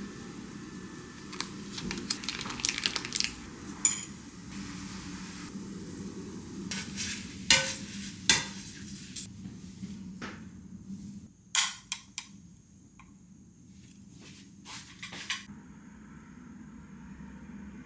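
Kitchen cooking sounds: food sizzling in a pan while a utensil scrapes and clinks against the pan and dishes. The sizzle fades after about eleven seconds, leaving a few scattered clinks.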